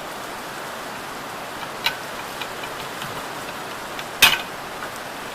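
Metal clicks from drum brake shoes and springs being worked by hand: a small click about two seconds in and a sharper, louder one about four seconds in, over a steady background hiss.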